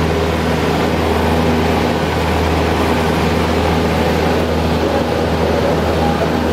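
A light aircraft's piston engine running, heard from inside the cockpit: a loud, steady drone with a deep hum that holds unchanged throughout.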